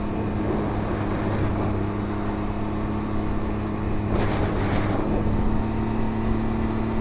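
Can-Am Ryker Rally Edition's three-cylinder engine running at a steady speed while riding, with road and wind noise; a short rush of noise swells and fades about four to five seconds in.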